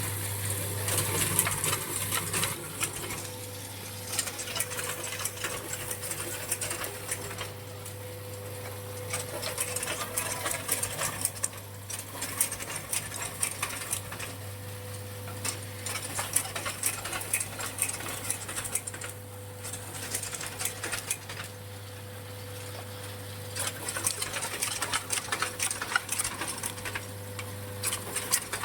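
Shaving machine running steadily with a constant low hum, and a dense irregular clicking and crackling on top that grows busier and louder in stretches, about a second in, around ten seconds in and near the end.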